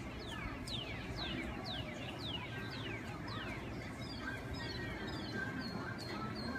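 Birds calling in a quick series of short, falling chirps, about three a second, over a steady low background noise.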